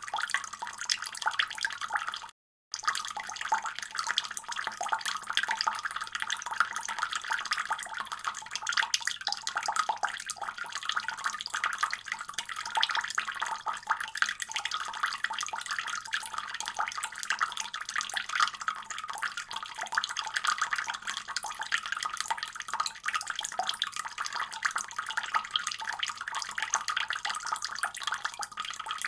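Faucet running steadily, a dense hiss of splashing water, broken by a momentary cut to silence about two and a half seconds in.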